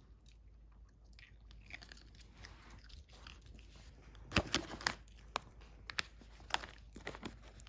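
Small dog, a Yorkshire terrier, chewing a crunchy treat: faint at first, then a run of sharp, irregular crunches from about halfway in.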